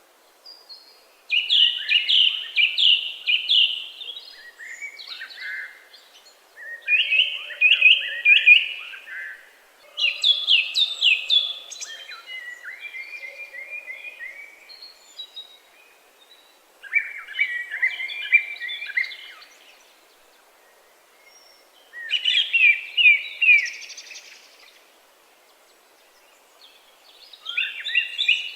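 A songbird singing short, loud phrases of quick repeated notes, a new phrase about every five seconds.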